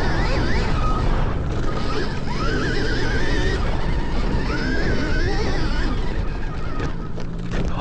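Stark Varg electric motocross bike being ridden, its motor whine rising and falling with the throttle over a dense rush of wind and riding noise.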